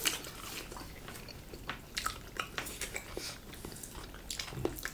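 People chewing and smacking their lips while eating spicy chicken salad: irregular soft clicks and smacks.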